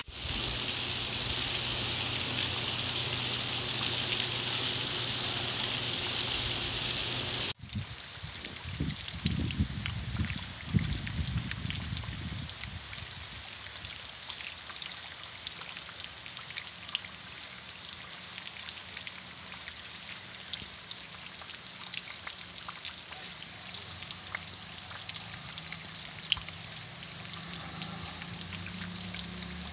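Heavy rain hissing steadily for about seven seconds, then, after a sudden cut, lighter rain with individual drops ticking, and a few seconds of low rumbling early in that part.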